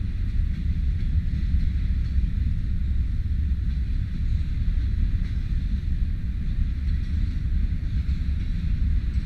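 Covered hopper cars of a grain train rolling past, a steady low rumble of steel wheels on the rails.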